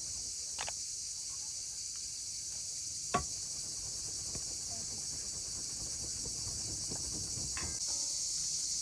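Steady high-pitched insect chorus, with a few short knocks, the sharpest about three seconds in.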